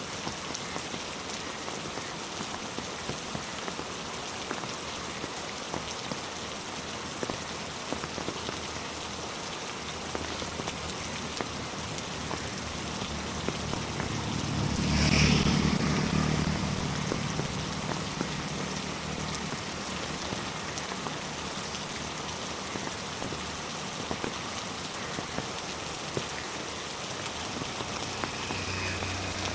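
Steady heavy rain falling on a road and trees, an even hiss. About halfway through, a low rumble swells and fades over several seconds.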